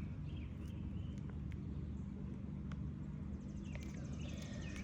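Steady low outdoor rumble with a few faint clicks: light taps of a hand tool working under asphalt roof shingles to break their seal.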